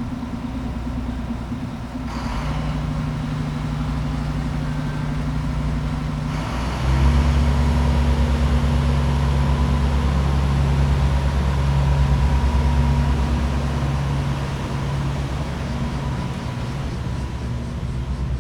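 Diesel train engine running at a station, then opening up about seven seconds in, louder and deeper as the train pulls away.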